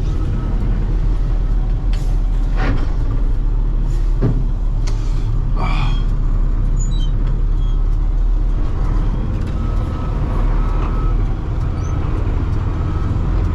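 Heavy equipment's engine running steadily, with several short metallic clanks and knocks in the first half.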